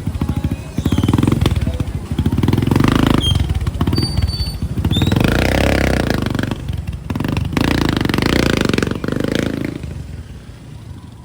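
Small vehicle engines passing close in street traffic, a rapid low throb that swells several times and dies away near the end.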